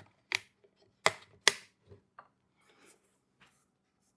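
A few sharp clicks and knocks of a funnel and oil bottle being handled while getting ready to pour oil into the plate compactor's engine: three louder knocks in the first second and a half, then a few faint clicks.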